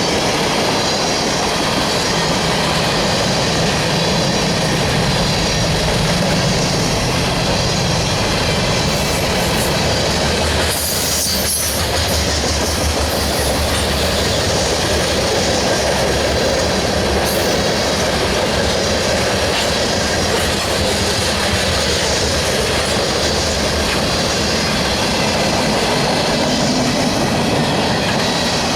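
Freight cars of a Union Pacific manifest train rolling past: the steady, loud noise of steel wheels running on the rails.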